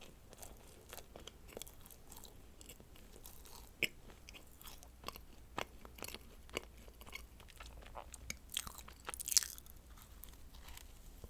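Close-miked eating of a dacquoise, a meringue-almond sandwich cookie with cream filling: soft chewing with scattered crisp crackles and small mouth clicks, the loudest crackle about nine seconds in.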